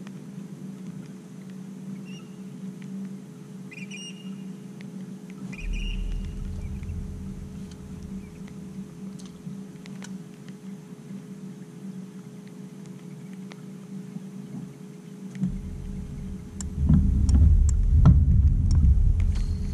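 A small boat motor running with a steady, even hum. A deep rumble joins it briefly about five seconds in, then returns and swells near the end with a few knocks.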